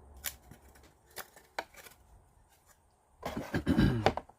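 Plywood kit parts being handled: a few light taps and clicks, then a louder clatter of wooden pieces about three seconds in.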